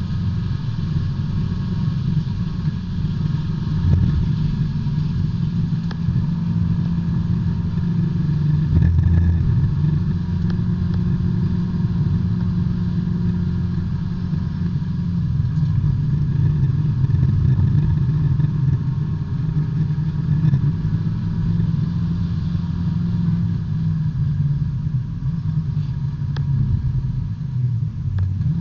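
B-Spec subcompact race car's engine heard from inside the cockpit, running hard at racing speed with small rises and dips in pitch.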